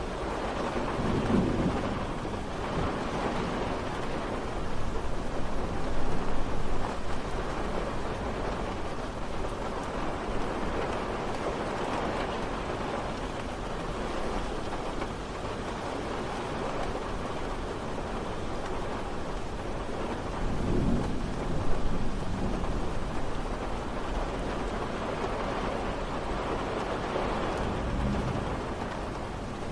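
Steady rain falling, with low rumbles of thunder swelling up a second or two in, again around five to seven seconds in, and most strongly about two-thirds of the way through.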